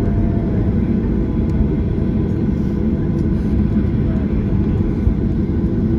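Steady low rumble of cabin noise inside a Boeing 737-800 on the ground after landing, its CFM56 engines running at low power as it rolls toward the gate, with a faint steady whine on top.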